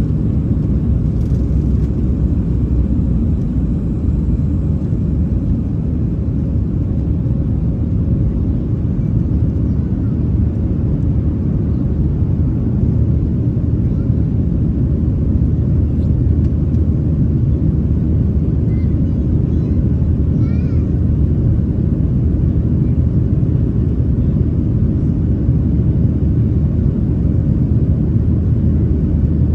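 Boeing 737-700 cabin noise at takeoff thrust, heard from inside the cabin: the CFM56-7B engines and airflow make a steady, loud low rumble.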